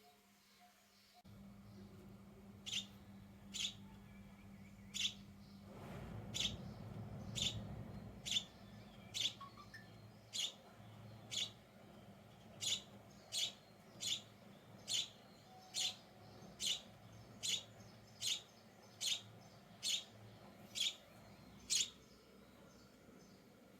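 A sparrow chirping: short, sharp single chirps repeated evenly, a little faster than one a second, stopping shortly before the end. A faint low steady hum runs underneath.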